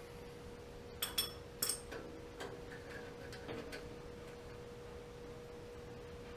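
Small metal parts and tools clinking: three sharp clinks with a brief metallic ring about a second in, then a few lighter taps, over a steady faint hum.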